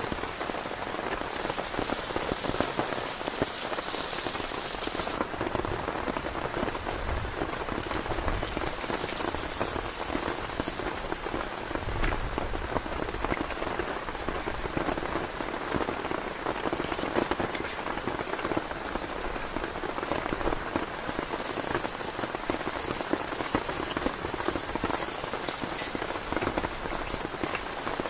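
Heavy rain falling steadily on a tent, a dense, even patter of drops.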